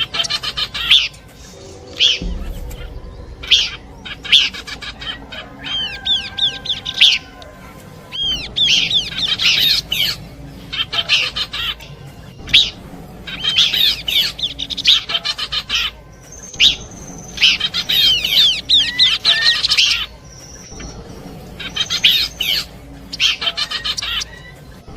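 Pelanduk semak (Horsfield's babbler) song mixed with other birdsong, played as a trapping lure: repeated bursts of quick, high chirps and sliding notes, each a second or two long, with short pauses between.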